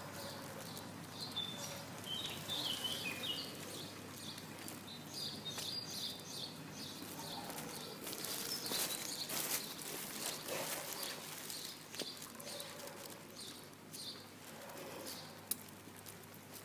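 Outdoor background of small birds chirping, with light steps tapping on concrete as the pug walks on its front legs. One sharp click near the end.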